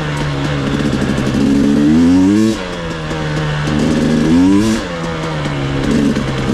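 ATV engine running under the rider's throttle. It revs up in pitch and drops back sharply twice, about two and a half and about five seconds in, and runs steadily in between.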